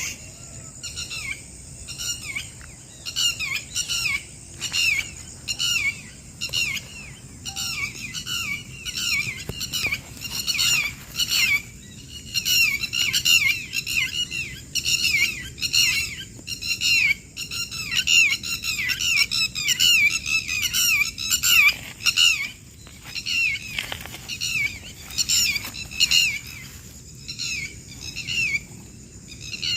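Birds calling over and over: short, sharp downward-sliding notes, several a second, with a couple of brief lulls.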